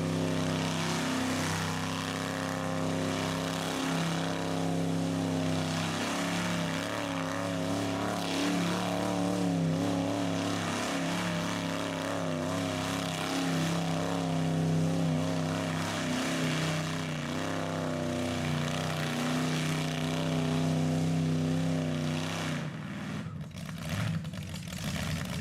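Rat rod's engine idling steadily, with a slight wavering in its pitch. Near the end the steady tone drops out and gives way to a rougher, uneven engine sound.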